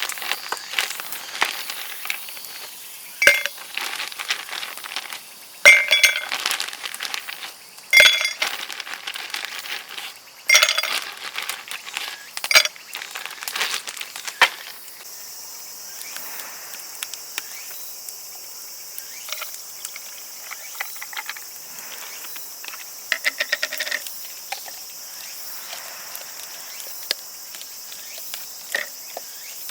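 A handful of sharp clinks and knocks, each ringing briefly, in the first half. Then, from about halfway, steady cricket chirping that carries on to the end.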